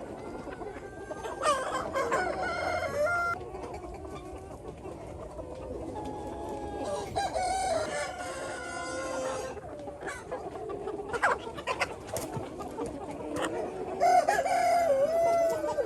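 A flock of chickens clucking, with roosters crowing three times: about a second and a half in, midway through, and near the end.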